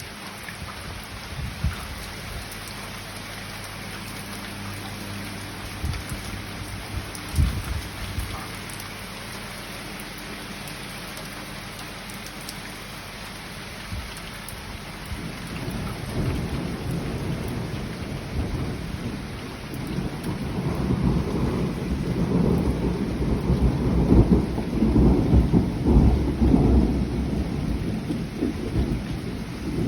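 Steady rain falling, with a few sharp knocks in the first half. Thunder rumbles in from about halfway, swelling in long rolls and loudest near the end.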